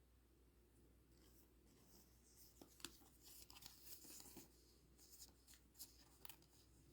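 Faint rustling and light clicks of trading cards and booster-pack wrappers being handled, starting about a second in.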